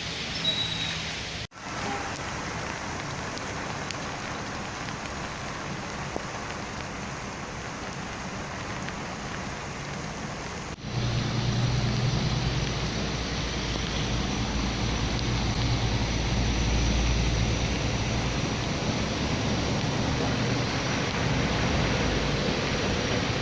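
Heavy torrential rain falling in a steady hiss. There is a brief break about a second and a half in and another about 11 s in, after which it is louder, with a deeper rumble underneath.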